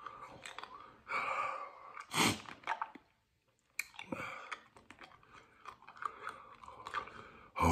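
A man chewing buffalo wings: wet mouth clicks and short noisy chewing sounds coming and going, with one louder burst about two seconds in.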